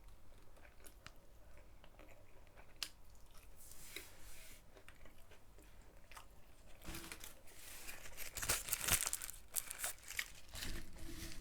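Quiet eating sounds: chewing a chicken burger, with rustling and crinkling of its paper wrapping. The rustling grows louder and busier about seven seconds in.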